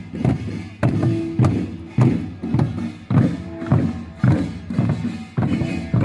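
Korean samul nori percussion playing a steady march beat: drum strokes a little under two a second, with the ringing clang of gongs over them.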